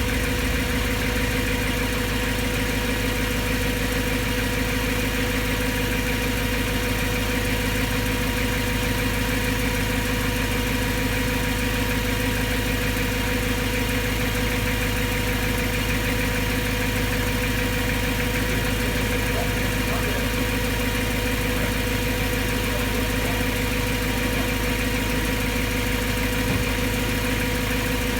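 BMW M3's S65 4.0-litre V8 idling steadily, with a ticking noise that persists after new rod bearings were fitted; the owner finds it still sounds not normal.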